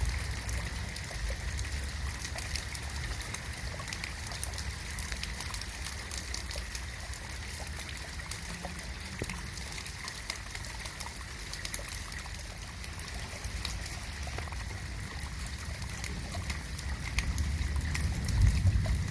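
Steady rain with many separate drops ticking and water trickling. A low rumble swells near the end.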